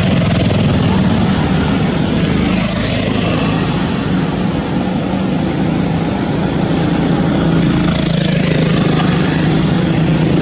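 A steady engine hum under a loud rushing noise.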